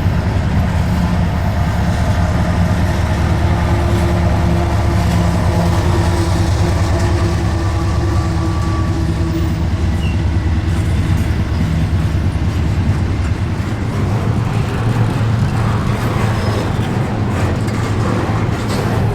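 Freight train running by, a steady low diesel rumble with rail-car noise. The low hum shifts in pitch about thirteen seconds in.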